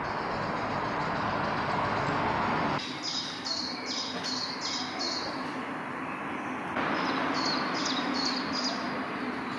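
A small songbird singing two quick runs of repeated high, slightly falling chirps, about three a second, over a steady outdoor background rush.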